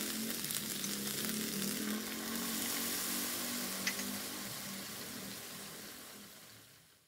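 Gochujang-marinated chicken cubes sizzling in a hot cast iron skillet. Later the pan holds added stock and the sizzle grows softer, fading out near the end.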